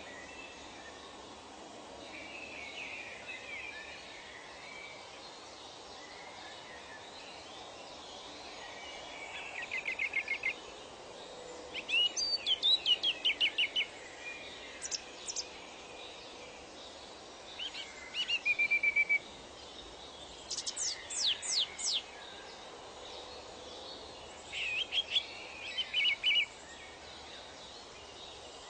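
Songbird singing short phrases of rapid repeated notes every few seconds, over a steady background hiss of outdoor ambience. Softer, more distant bird chatter comes in the first few seconds.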